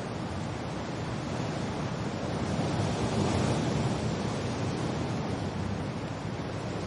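Wind and rain in a steady, even rush of noise, swelling slightly about three seconds in.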